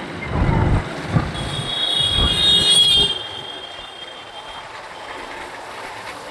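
Road traffic heard from a moving motorbike in city streets. Low rumbles come early on, then a high-pitched squeal runs from about a second and a half in to about three seconds in, and quieter steady traffic noise follows.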